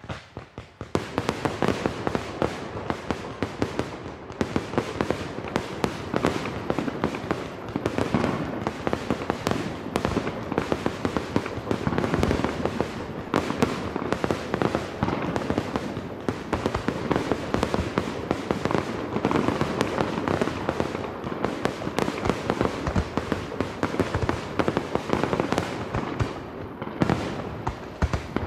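Fireworks grand finale: a dense, continuous barrage of rapid, overlapping bangs from shells bursting, many each second, starting about half a second in.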